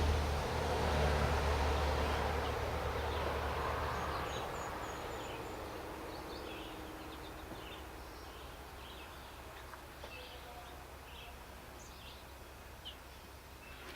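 A low rumbling noise fades away over the first few seconds. Then small birds chirp in short, repeated calls, about one or two a second, with a quick run of four high notes about four and a half seconds in.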